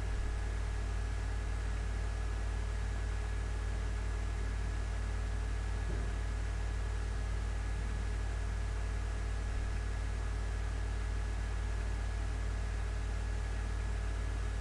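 Steady background hum and hiss with no speech: a strong low hum under an even hiss and two faint steady tones, unchanging throughout.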